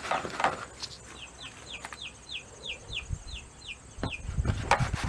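Baby chicks peeping in a brooder: a quick run of short, high peeps, about three a second. Rustling and low bumps come in near the end.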